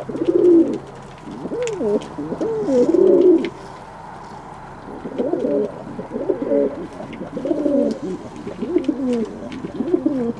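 Domestic pigeons cooing in a loft, in repeated wavering low coos: a run of calls, a short pause about three and a half seconds in, then more cooing to the end.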